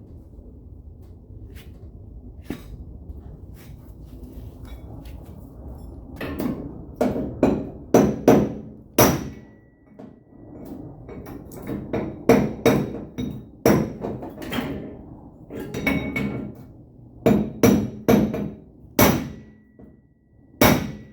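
Hammer blows on a pickup truck's sheet-metal quarter panel, knocking out a dent. A few faint clicks at first, then from about six seconds in, sharp irregular strikes in quick groups of two or three.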